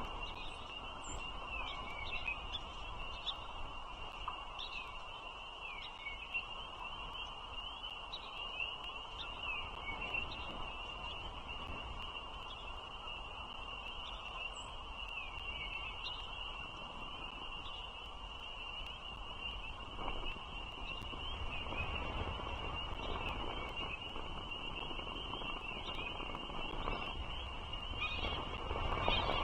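Bald eagle chicks peeping in the nest: a run of short, high, downward-sliding peeps about once a second, over a low steady rumble.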